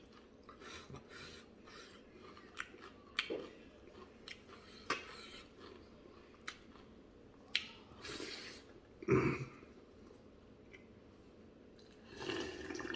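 A person eating rice with buffalo leg soup, chewing with scattered mouth clicks and smacks. There are short louder noisy sounds about eight and nine seconds in and again near the end.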